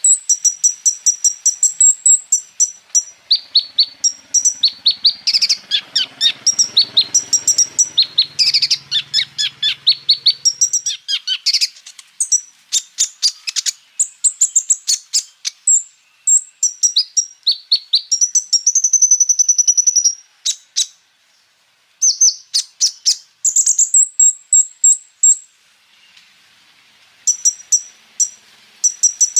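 A kolibri ninja, a small sunbird, singing a fast, high-pitched song of rapid chirps and rattling rolls, with a longer trill shortly before it pauses about two-thirds of the way through, then starting again.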